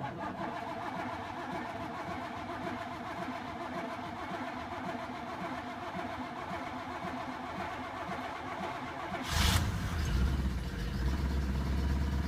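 1983 Buick Electra's carbureted engine cranking on the starter for about nine seconds on a cold start after five months sitting. It then catches near the end and keeps running.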